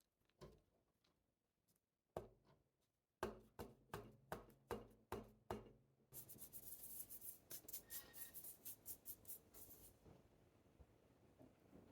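Quiet hands-on potting sounds while assembling a succulent arrangement: a couple of light taps, then a quick run of sharp knocks, followed by about four seconds of fast, hissy scratching and rustling.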